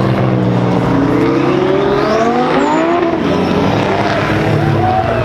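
Car engines running, one revving up hard as the car accelerates away, its pitch climbing for about two and a half seconds, then dropping and climbing again as it shifts gear.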